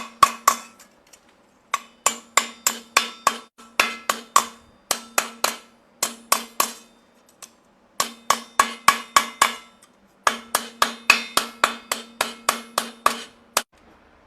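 Hammer blows in quick runs of about three to four strikes a second, broken by short pauses. Each run rings with a steady metallic tone, like a hammer working a sheet-metal piece.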